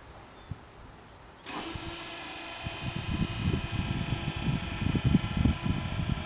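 Level-crossing warning bell starting abruptly about a second and a half in and ringing steadily, the signal that the crossing is closing for an approaching train. A low gusty rumble runs underneath.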